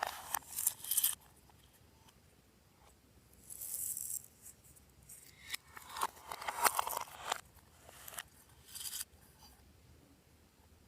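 Slime being worked by hand, giving bunches of sticky crackling and popping clicks at the start and again from the middle on, with a short hiss about four seconds in.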